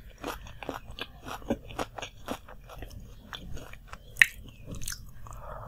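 Close-miked chewing of a fried samosa, a steady run of short wet crunches and mouth clicks. About four seconds in there is one sharp, much louder click.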